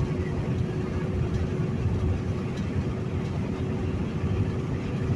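Steady low rumble inside a semi-truck cab at highway speed: engine and road noise, with a faint steady whine over it.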